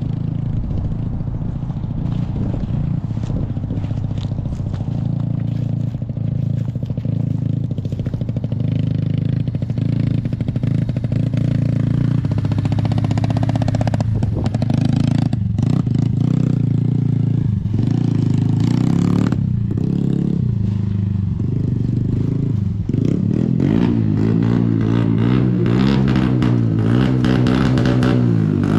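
Yamaha TT-R90 dirt bike's small four-stroke single-cylinder engine running steadily, with the engine note wavering up and down in the last few seconds. It is making a noise the owner doesn't think it is supposed to make.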